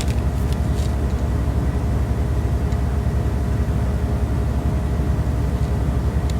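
Steady low rumble with a faint hum, holding level without pauses.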